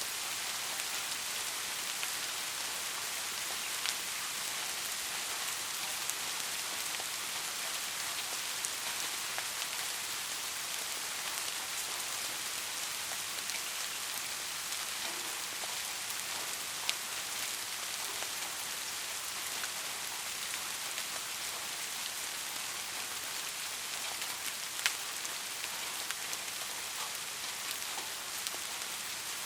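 Steady rainfall, an even hiss, with a few louder single drops ticking out of it.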